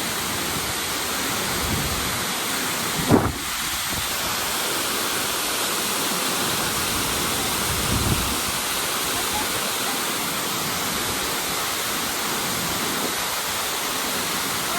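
Tortum Waterfall's falling water making a steady, dense roar. A sudden low thump comes about three seconds in, and a smaller low swell near eight seconds.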